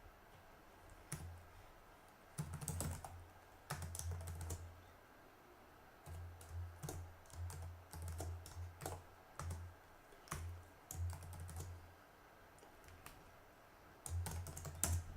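Computer keyboard typing in irregular bursts of keystrokes, with short pauses between bursts.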